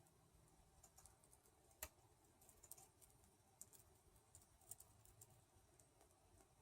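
Faint, irregular clicks of a budgie's beak nibbling and gnawing at a chain held in its foot, one sharper click about two seconds in.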